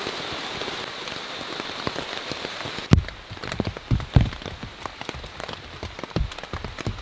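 Rain falling in the rainforest, a steady hiss at first. About three seconds in, the hiss drops away and big separate drops strike close by, with a few loud knocks.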